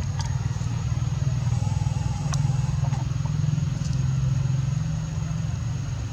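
An engine running steadily at idle, a low, even rumble with a few faint clicks over it.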